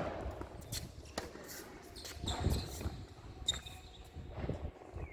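A series of sharp, irregular tennis ball impacts on court: bounces and racket hits, mixed with players' footsteps.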